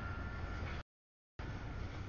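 Double-stack container freight train rolling past at a grade crossing: a steady low rumble with wheel and rail noise. The sound comes in abrupt chunks, about a second of train noise, a half-second of dead silence, then another second.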